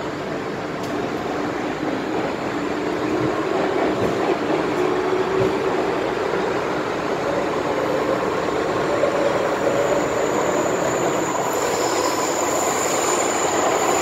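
MTR M-Train electric multiple unit running through a tunnel, heard from inside: a steady rumble of wheels and air with a faint drifting whine. A thin high whistle joins about two-thirds of the way through.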